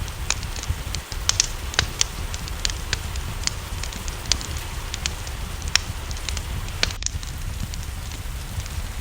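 Wood fire crackling, with many irregular sharp pops, over a steady hiss of rain and a low rumble.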